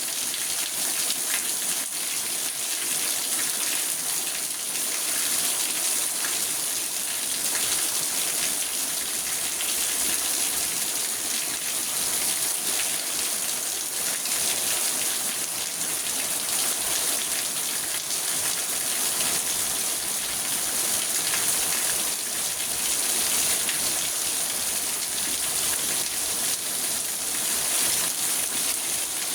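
Steady rain on a car, heard from inside the cabin: an even, dense hiss of drops that keeps up without a break.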